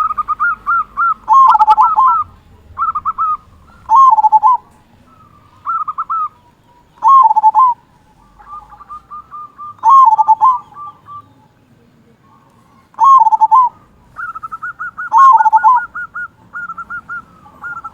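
Zebra dove (perkutut) cooing: repeated phrases of quick, stuttering higher notes that end in a loud, deep 'kung'. The phrases come about every two to three seconds.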